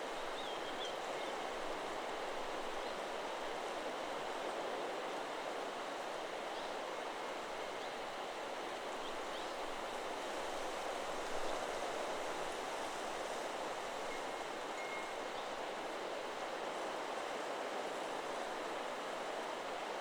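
Steady wind rushing through forest trees, with a few faint bird chirps now and then; the wind chime is silent.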